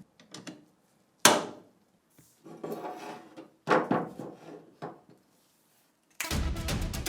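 Metal parts of an MG 81 machine gun being handled: a sharp clack, a scraping slide, another sharp clack, then a few lighter clicks. Music starts near the end.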